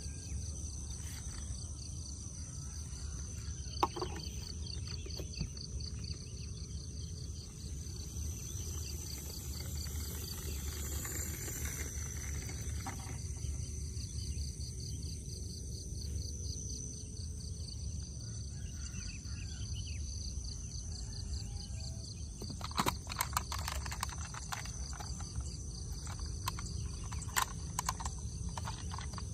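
Outdoor ambience of insects chirring steadily, with a fast even pulsing high tone over a low rumble. Scattered clicks and knocks come once about four seconds in and several times in the last few seconds.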